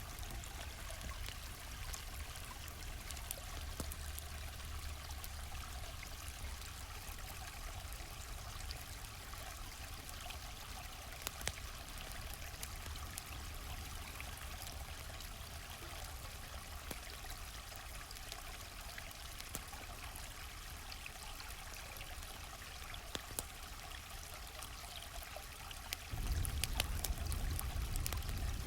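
A small stream flowing steadily, with scattered crackles and pops from a campfire. About 26 seconds in, the low rumble of the water suddenly becomes louder.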